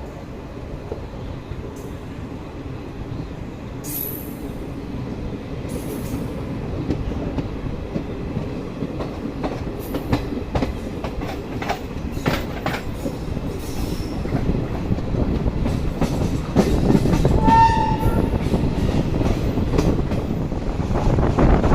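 Passenger train running along the track, its wheels rumbling and clicking over rail joints, growing louder as it goes. About seventeen seconds in, a short high-pitched tone sounds once.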